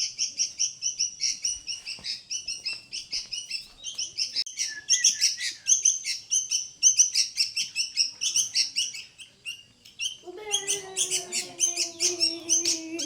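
A small bird chirping rapidly and without a break, several high chirps a second. From about ten seconds in, a long, steady, voice-like call, falling slightly in pitch, sounds beneath the chirps until the end.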